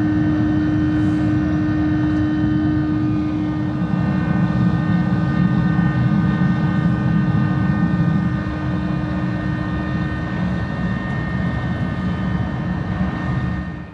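Loud, steady machine drone with a constant hum and whine, cutting off abruptly near the end.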